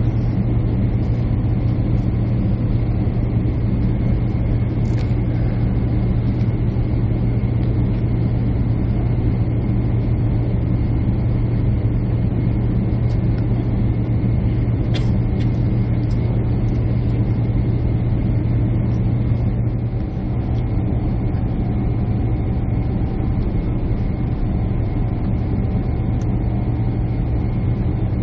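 Jet airliner cabin noise: a steady drone of the engines and airflow heard from inside the passenger cabin, with a strong low hum. The level dips slightly about twenty seconds in.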